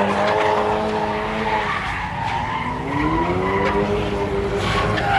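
Car tyres squealing as a car spins its wheels in a burnout, over the engine's revving. The squeal wavers in pitch, sagging about two seconds in and climbing again.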